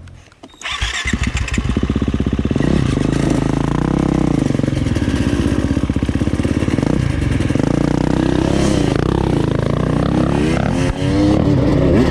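Enduro motorcycle engine, nearly quiet for a moment and then running loud from about a second in, its pitch rising and falling as the throttle is opened and closed.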